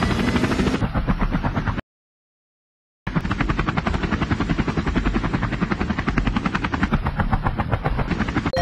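Helicopter sound effect: fast, steady chopping of the rotor blades, cutting out for about a second near the start and then picking up again.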